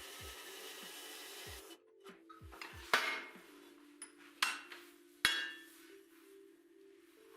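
Metal workpiece being struck: three sharp, ringing metallic clanks, the first after a short burst of hissing noise, with soft background music underneath.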